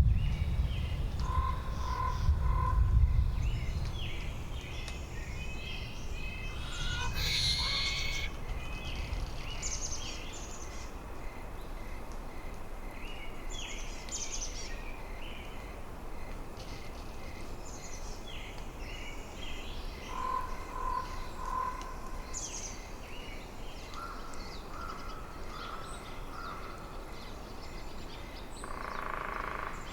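Winter forest ambience: low wind rumble in the first few seconds that dies down, under scattered short bird calls and chirps, with a harsher, caw-like call near the end.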